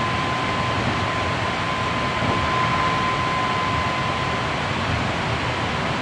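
Hankyu 7300 series electric train running steadily, heard from inside the car with the recorder on the floor: an even rumble of wheels and rolling noise, with a steady high tone.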